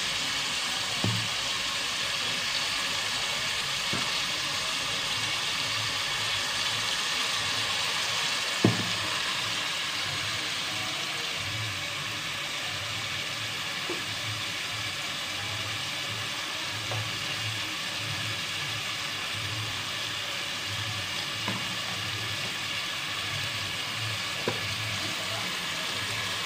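Chopped onion, garlic and tomato sizzling steadily in oil in an aluminium pot, with a few light knocks, the clearest about a third of the way through.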